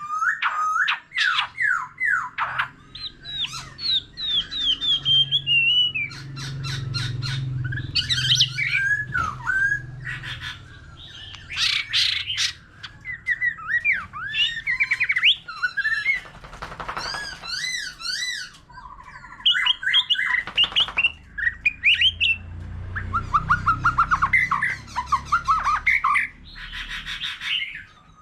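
White-rumped shama singing its varied, many-voiced song: a continuous run of gliding whistled phrases, fast trills and harsh chattering notes.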